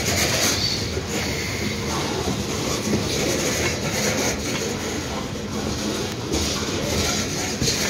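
Coal hopper cars of a freight train rolling past close by: a steady rumble of steel wheels on rail, with recurring clacks as the wheels pass over the rail joints.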